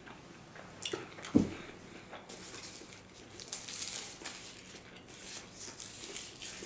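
Close-miked mouth sounds of chewing sushi, soft and crackly. A sharp knock comes about a second and a half in.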